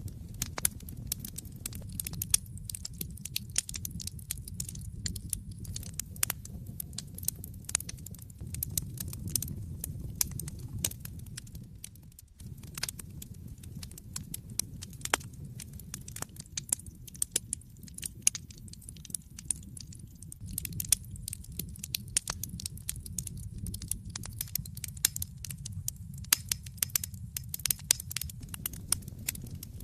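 Wood fire burning in an open fireplace: a steady low rumble of the flames with frequent irregular crackles and sharp pops from the burning logs. The sound briefly drops away for a moment about twelve seconds in.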